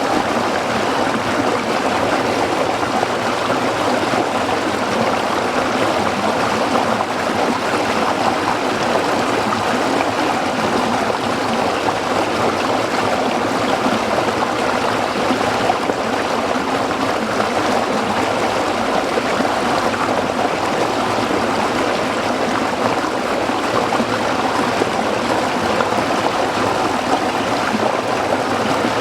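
A small stream running over rocks, a steady babbling and splashing without let-up.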